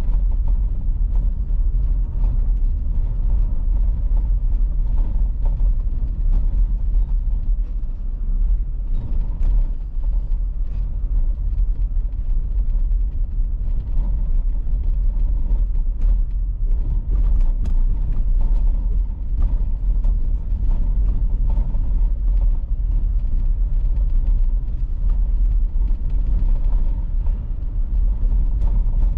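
A car driving: a steady low rumble of tyres and engine, with faint scattered ticks and clicks over it.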